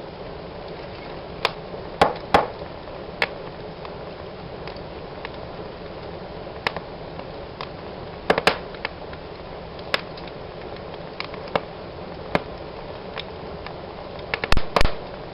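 Wood fire in a fireplace crackling: a steady hiss of the flames with sharp pops at irregular intervals, a few louder ones, and a quick cluster of pops near the end.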